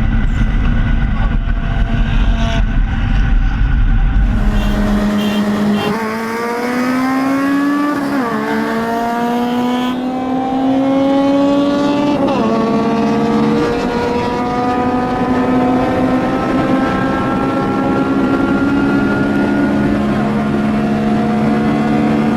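Honda K20 four-cylinder engine accelerating hard through the gears. After a low rumble, the engine note climbs steadily in pitch and falls back sharply at each gear change, about eight, twelve and a half and thirteen and a half seconds in, then climbs slowly again.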